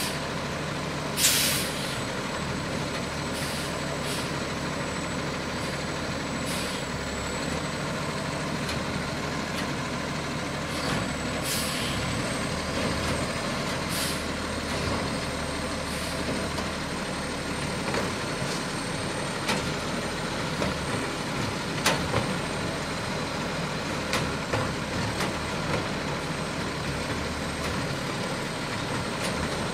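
Garbage truck's diesel engine running steadily, with short hisses of air released from its air brakes, the loudest about a second in and others around twelve and fourteen seconds in. Scattered knocks in the second half.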